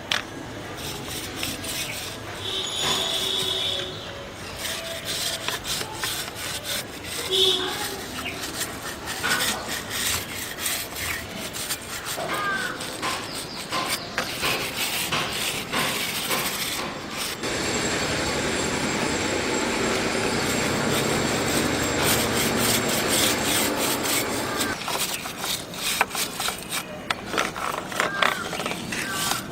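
Brush scrubbing a kerosene-wet KTM RC390 motorcycle chain in many quick rubbing strokes, working loose the dirt. Partway through the scrubbing turns into a steadier, continuous rasp for several seconds.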